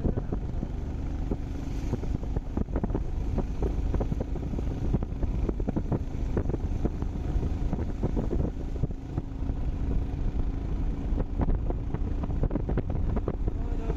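Motorcycle running on the move, under heavy wind buffeting on the microphone, with a faint steady engine hum and scattered knocks and rattles.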